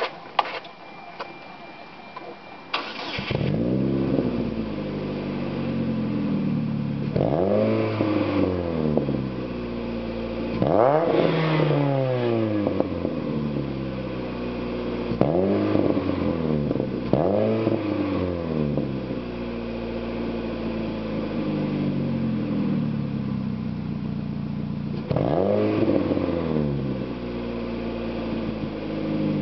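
Saturn Ion Redline's supercharged 2.0-litre four-cylinder breathing through an aftermarket header, 3-inch catted downpipe and stainless cat-back with a Borla muffler. It starts about three seconds in, then idles and is blipped about five times, each rev rising and falling back to idle, the highest about eleven seconds in.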